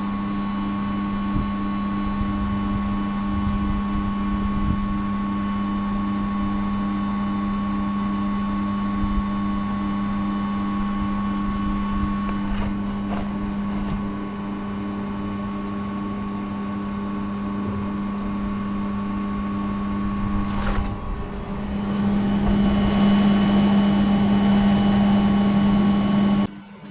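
Steady machine hum with a strong low tone and fainter higher tones above it. It grows louder and rougher about three quarters of the way through, then cuts off suddenly near the end.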